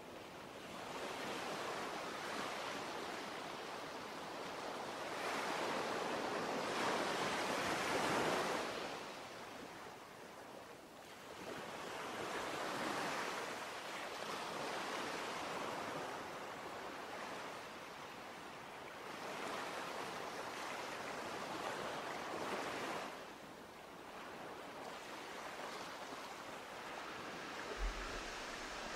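Ocean surf: waves washing in, a hiss that swells and fades in long surges every few seconds.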